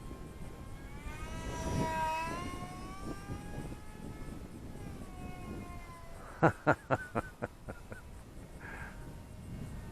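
Small brushless motor (Racerstar 1104, 7000KV) on an RC foam glider spinning a 3-inch two-blade prop: a high whine with overtones that swells and bends in pitch as the plane passes about two seconds in, then fades and comes back. A quick run of five or six sharp clicks about six seconds in.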